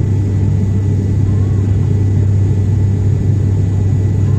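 Airliner cabin noise in flight: a steady, loud, deep drone of the engines and airflow that does not change.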